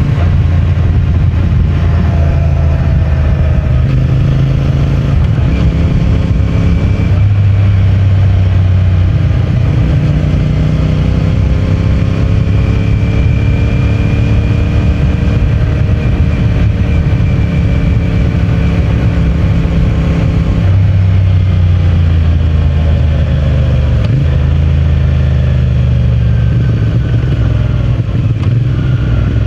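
CFMOTO 450MT's parallel-twin engine and stock exhaust running under way, its note stepping up and down in pitch several times as the speed changes.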